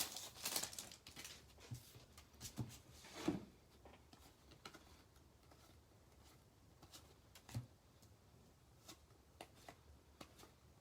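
Faint rustling and light clicks of trading cards being handled and flipped through. The sound is busier for the first few seconds, then drops to sparse taps, with one slightly louder knock about seven and a half seconds in.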